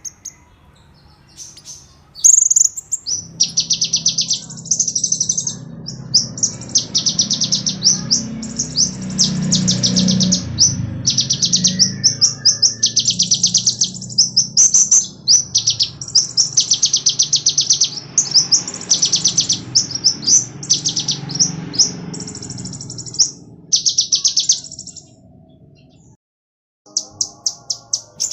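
Konin bird singing vigorously in repeated bursts of rapid, high-pitched trills with short gaps between phrases, a lure song used to set caged konin birds singing.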